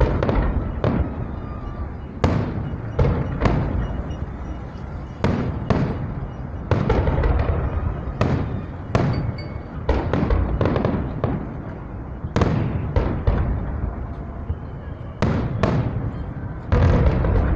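Fireworks salute: aerial shells bursting one after another, about one bang a second, with a low rolling rumble between them.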